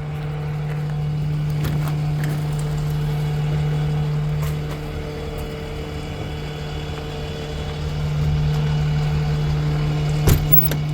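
An engine idling with a steady hum that grows somewhat louder for a few seconds twice, with a sharp knock near the end.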